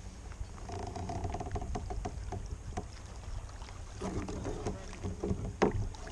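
Handling noises aboard a fishing kayak: a steady low rumble with scattered light knocks and clicks, and a sharper knock near the end.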